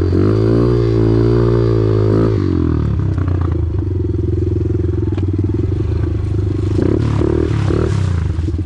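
Off-road vehicle engine running loud and close, its pitch wavering with throttle for about the first two seconds, then settling to a steadier, lower drone. A few brief knocks and clatters come through near the middle and end.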